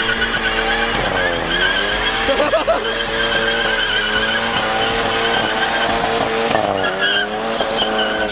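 A car doing a burnout, its engine held high in the revs with tyres squealing; the revs dip and climb back twice, about a second in and near the end.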